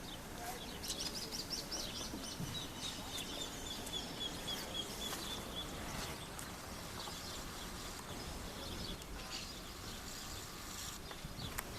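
Bird song: a quick run of high chirps, then a fast, even trill held for a few seconds, over steady outdoor background noise.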